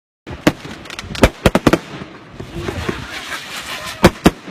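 Fireworks going off: a quick run of sharp bangs, then a spell of crackling about halfway through, and two more loud bangs near the end.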